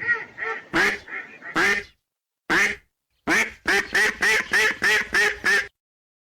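Ducks quacking: a few quacks, a single quack after a pause, then a quick run of about eight quacks that stops suddenly.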